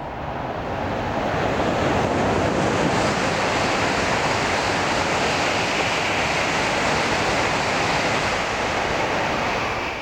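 N700-series Shinkansen passing through a station at high speed without stopping: a loud, steady rushing noise that builds over the first couple of seconds and then holds.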